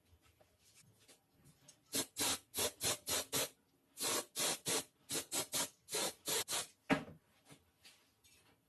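Hand rubbing strokes, like filing or sanding a rifle part during restoration, in quick back-and-forth runs of about three to four strokes a second, with a short pause between runs. A single sharp knock follows near the end.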